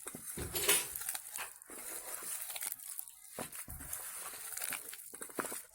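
Hands kneading and squeezing a stiff gram-flour dough mixed with chopped onion, cabbage and carrot in a bowl: irregular crackling, squishing handling sounds.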